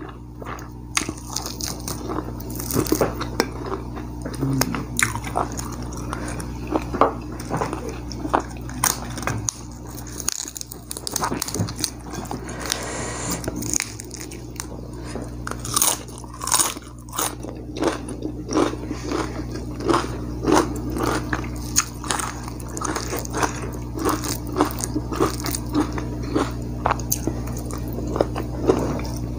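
A person chewing and biting fried duck, close to the microphone: irregular wet mouth clicks and crunches, several a second.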